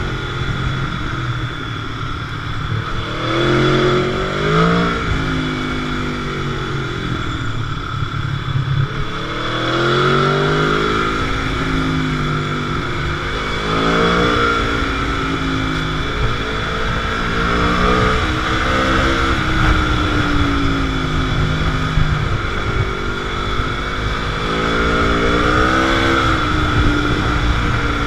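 Motorcycle engine running under way, its pitch rising and falling several times as the rider accelerates, shifts and rolls off, over a steady rush of wind noise.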